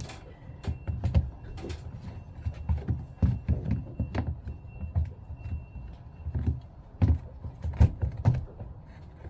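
Irregular clicks, knocks and low thuds of a Jabsco diaphragm pump's parts being handled and fitted together during reassembly.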